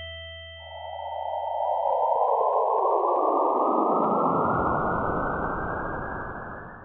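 Electronic hiss of filtered white noise that swells in about half a second in, opens out and grows louder over the next couple of seconds, holds, then eases off slightly and cuts off suddenly at the end.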